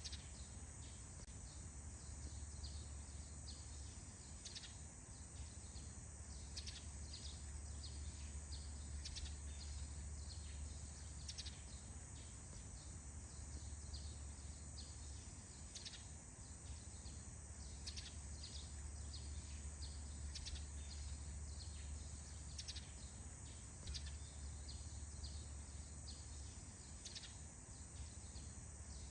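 Outdoor morning ambience: scattered short bird chirps over a steady high-pitched insect drone and a low steady rumble.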